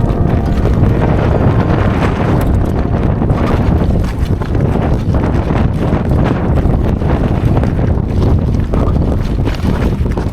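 Strong gusting wind buffeting the microphone: a loud, continuous rush of wind noise.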